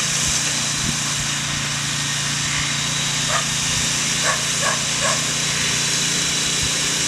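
A dog barking in short yelps, once about three seconds in and then three quick barks a second later, over the steady running of a walk-behind power tiller's engine.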